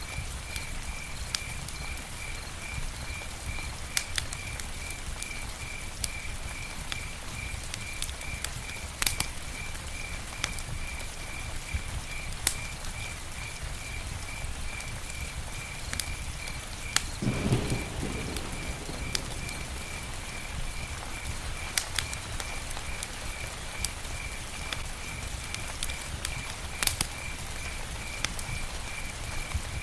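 Campfire burning: wood crackling with scattered sharp pops over a steady low rush. A high chirp pulses a couple of times a second throughout, and a louder, muffled low swell lasts about a second past the middle.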